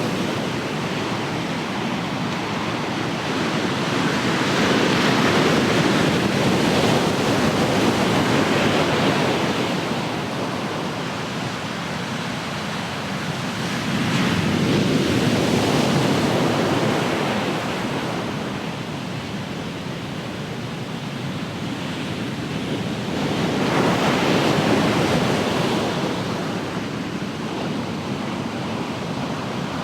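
Ocean waves breaking and washing on the shore, the surf swelling and fading in slow surges about every nine or ten seconds, with some wind noise on the microphone.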